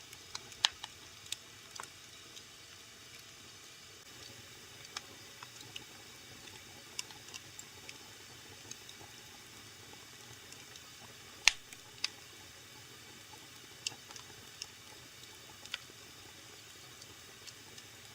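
Wood fire crackling in a fireplace: irregular sharp pops and snaps over a soft steady hiss of burning, with two louder pops, one about half a second in and one a little past the middle.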